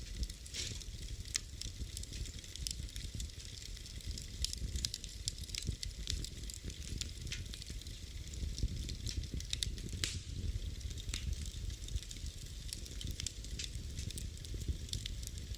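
Wood fire burning in a fireplace, crackling and popping at irregular intervals over a steady low rumble of the flames, with one sharper pop about ten seconds in.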